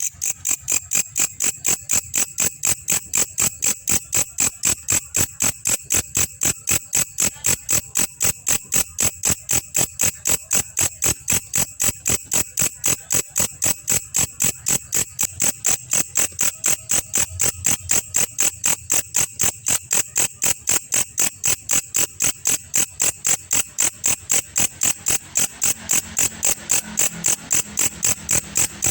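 Belalang kecek insect singing: an unbroken run of sharp, high-pitched chirps at an even pace of about three a second.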